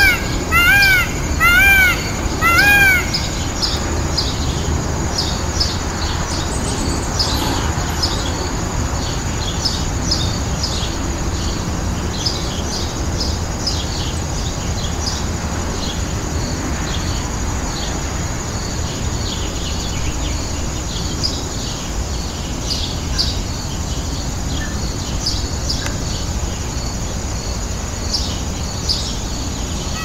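Birds calling: four loud, arching calls in quick succession in the first three seconds, over frequent short, high chirping that goes on throughout.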